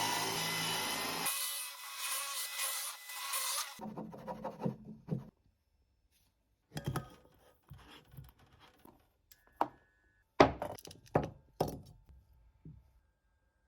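Woodworking sounds: about four seconds of steady sawing through wood, then a series of separate wooden knocks and scrapes with short pauses between them.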